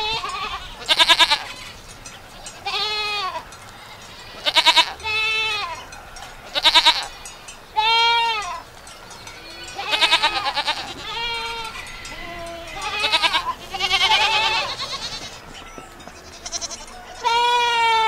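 Goats bleating: a string of about fifteen separate bleats of differing pitch, each about half a second long. Several of them quaver rapidly.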